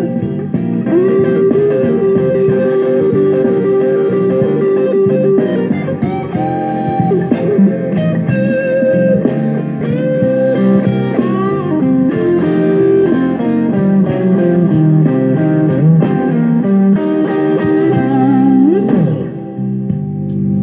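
Blues-style electric guitar music playing through a ported Fender Rumble 15 V3 bass amp. Long sustained lead notes with bends and vibrato sound over a fuller accompaniment.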